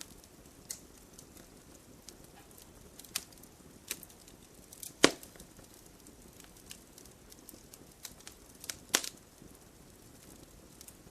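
Log fire crackling in a fireplace: scattered pops and snaps of burning wood over a soft steady hiss, the loudest pops about five and nine seconds in.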